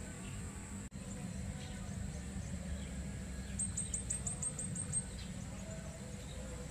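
Outdoor background sound: a steady low rumble under a steady thin high tone. A bird gives a quick run of about eight short, high, rising chirps around the middle.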